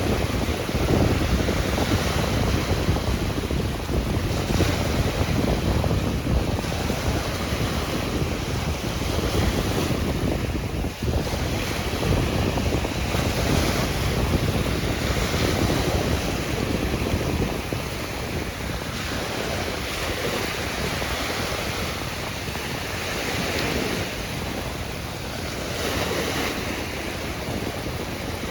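Ocean surf washing in and out, wave after wave, with wind rumbling on the microphone. The rumble eases about two-thirds of the way through.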